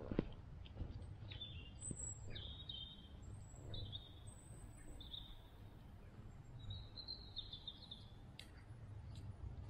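A small bird chirping: short, high calls repeated at irregular intervals every second or so, over a low steady outdoor rumble, with one sharp click just after the start.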